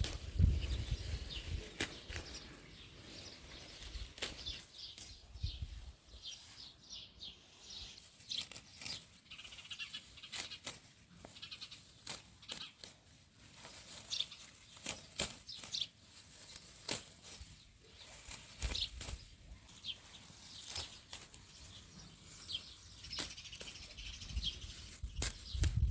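Birds chirping in short high calls over a run of sharp clicks and taps, with a few low thumps about half a second in, about five seconds in, about nineteen seconds in and near the end.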